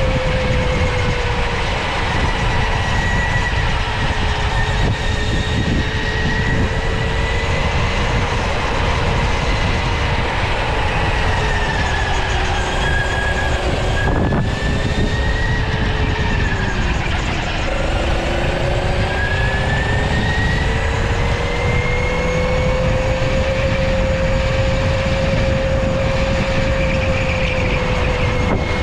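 Electric go-kart's motor whining under way, its pitch dipping a little past halfway as the kart slows, then climbing back as it speeds up again, over a loud, constant low rumble.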